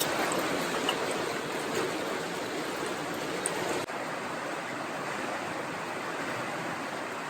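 Running water of a stream, a steady even rush with a brief break about four seconds in.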